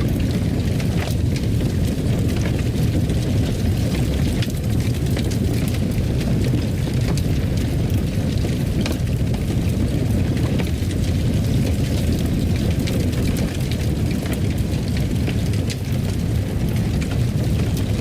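Fireplace: a steady low rumble of burning wood with scattered small crackles and pops.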